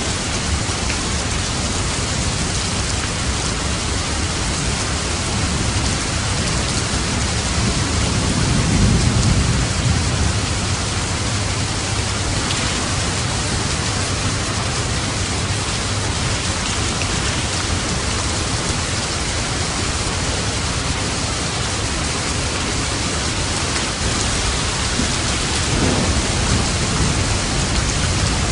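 Steady heavy rain falling, with low rumbles of thunder swelling about a third of the way in and again near the end.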